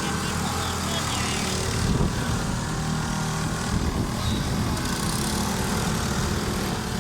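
Small engines of several bumper boats running steadily together, a continuous low drone.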